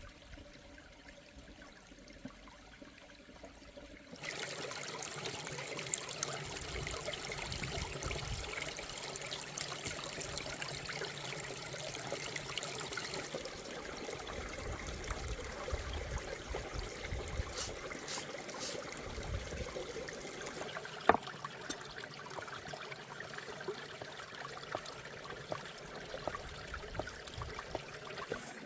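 Stream water flowing steadily, louder from about four seconds in, with a few small clicks and one sharper click about 21 seconds in.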